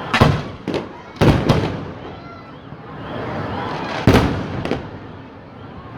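Fireworks display: four sharp shell bursts in quick succession within the first second and a half, then two more bangs about four seconds in, each trailing off with an echo.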